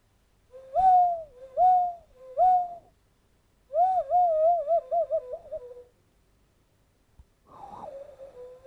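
Cupped-hand whistle, made by blowing across the knuckles into hands cupped together, giving hollow owl-like hoots. Three short hoots each slide up in pitch, then a longer warbling call wavers and drops, and fainter wavering calls come near the end.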